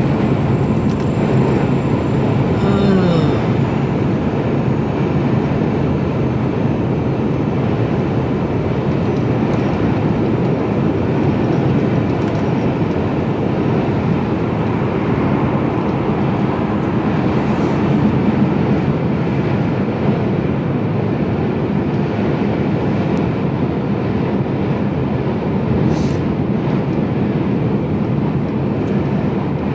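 Steady in-cab drone of a Mercedes-Benz Actros HGV running at speed on the motorway: engine hum under constant tyre and road noise.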